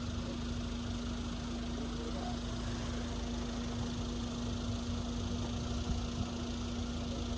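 A steady low hum held on one pitch, over a constant low rumble.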